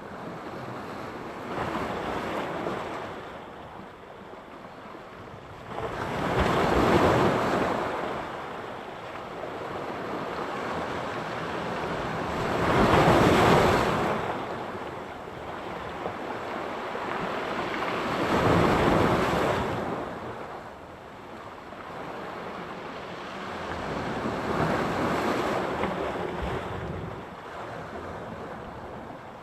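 Sea surf: waves breaking and washing onto the shore, swelling and falling back about every six seconds.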